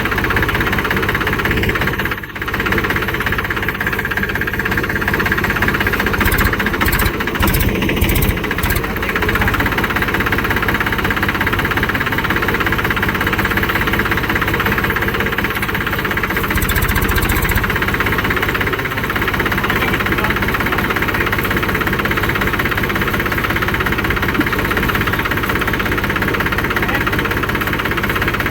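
Tractor's diesel engine running steadily and loudly, with a brief dip about two seconds in.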